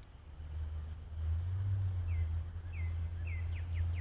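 A low, steady rumble that comes in about half a second in and grows louder about a second in, with a bird chirping over it: three short down-slurred notes, then a quick run of notes near the end.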